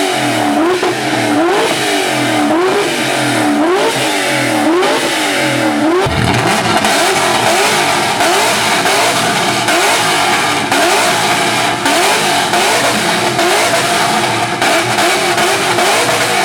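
Mustang V8 engine with a loud exhaust, revved over and over in quick blips, about one and a half a second. Each rev climbs in pitch and drops back. The revving changes character about six seconds in.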